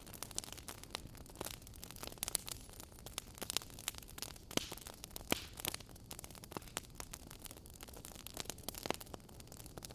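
Wood fire in a fireplace crackling: irregular sharp pops and snaps over a soft steady hiss, with a few louder pops.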